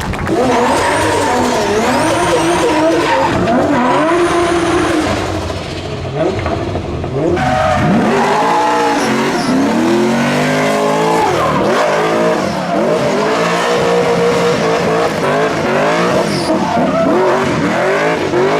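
Drift car engines revving hard, the pitch swinging up and down again and again, with tyres squealing.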